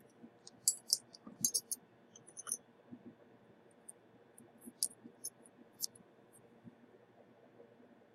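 Faint, irregular clicks and ticks of small metal hand tools being handled on the workbench, in small clusters about a second in and again around five seconds in.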